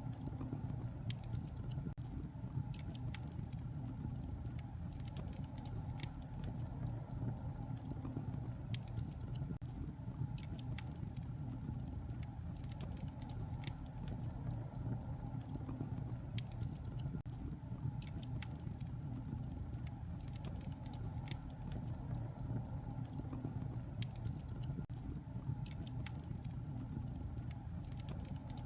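Fire burning in a fireplace: a steady low rumble of flames with many small, irregular crackles and pops.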